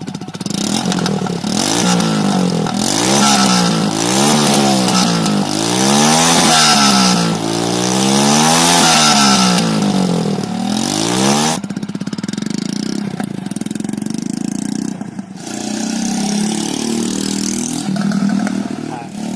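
Hero Splendor motorcycle's single-cylinder four-stroke engine running through a homemade exhaust, revved again and again with the throttle blipped up and down. About twelve seconds in it drops back to a lower, steadier run, with a few smaller revs near the end.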